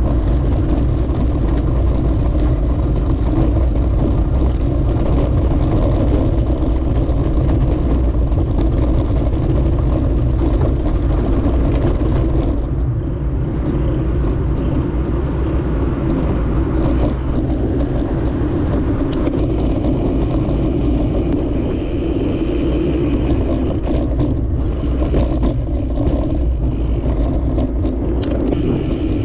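Steady rumble of wind and road noise while riding a bicycle along a road, with car traffic mixed in. A few light clicks fall in the second half.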